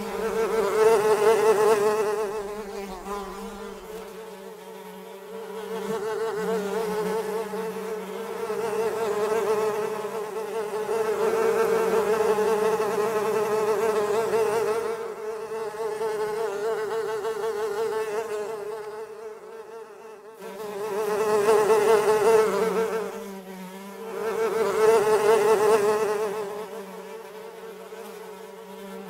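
Flies buzzing in flight: a steady, droning buzz with many overtones that swells loud and fades away several times, as flies come close and move off.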